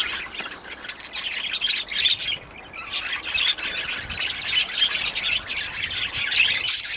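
A flock of budgerigars chattering: a dense, continuous stream of overlapping chirps and squawks.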